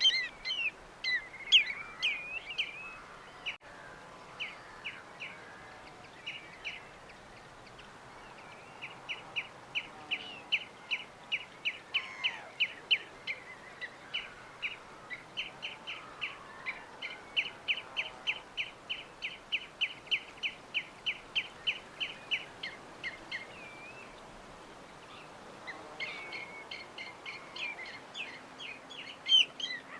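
Small birds chirping in quick repeated runs of short high notes, a few a second, with a brief lull a little past the middle, over a faint steady hiss.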